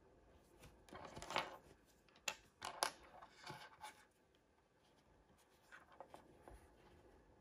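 Hands handling toy blind-bag packaging: crinkling plastic or foil and a few sharp clicks, mostly in the first half, then only faint handling.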